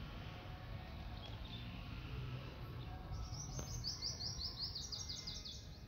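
A small songbird sings a fast run of short, falling high notes, about seven a second, starting about three seconds in, over a low steady rumble.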